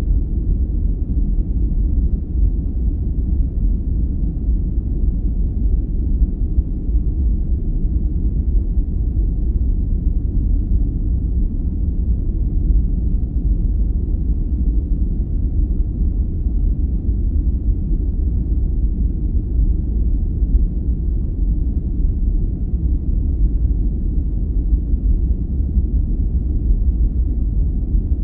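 Steady, deep, rumbling sleep-aid noise with no tones and no changes, its weight in the low end.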